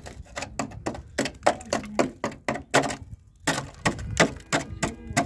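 A quick, irregular run of sharp cracks and knocks, several a second, with a short pause about three seconds in, from parts being broken or knocked loose while a rusty VW Golf Mk1 is stripped apart.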